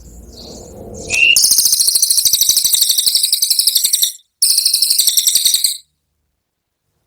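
Cililin bird singing its 'tembakan' song: a loud, very fast rattling trill of sharp high notes, broken once by a short gap, after which it stops abruptly.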